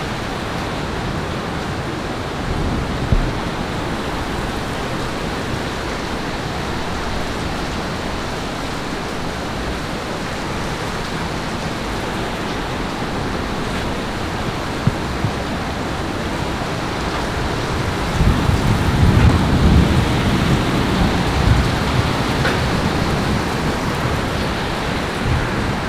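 Steady hiss of heavy rain. About two-thirds of the way through, a low rumble of thunder rises and rolls on to the end.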